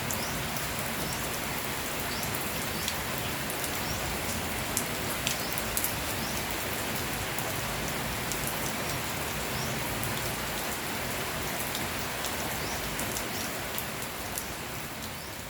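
Steady rain falling, with scattered sharp ticks of drops striking close by. The sound begins to fade down near the end.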